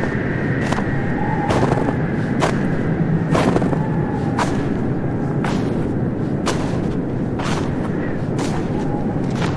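Footsteps crunching in snow, about one step a second, over a steady low rumble.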